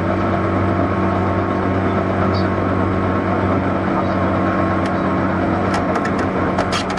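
Interior running noise of a JR 201 series electric train car (a MoHa 200 motor car): a steady rumble of wheels and running gear with a constant hum, and a quick cluster of sharp high clicks about five to seven seconds in.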